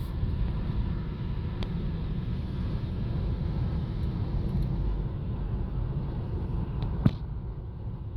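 Car driving, with a steady low rumble of road and engine noise. A single sharp click about seven seconds in.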